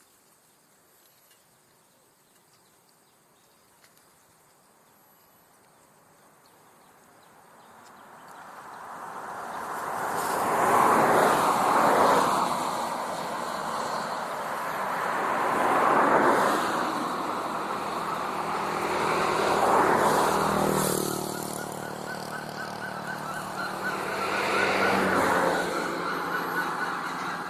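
Quiet for the first several seconds, then a string of road vehicles passing, each one swelling and fading away, about four in turn. From about three-quarters of the way in, the steady hum of an engine runs under them.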